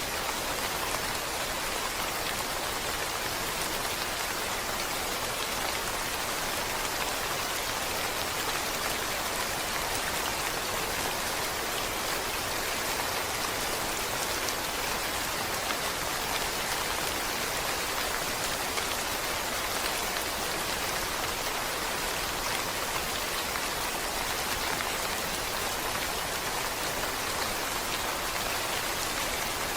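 Steady, continuous rain falling on a surface, an even hiss of many drops.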